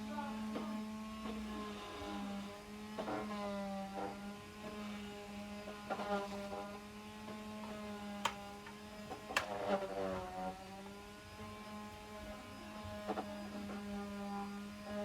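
Electric sander running steadily on a wooden gate, a motor hum whose pitch sags and recovers slightly as it is worked, with a few sharp knocks against the wood in the middle.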